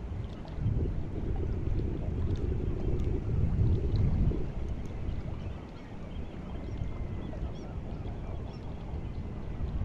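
Sea water washing at the shore on the incoming tide: a low, steady wash that swells and eases every few seconds, with wind on the microphone. Faint distant bird calls sound now and then above it.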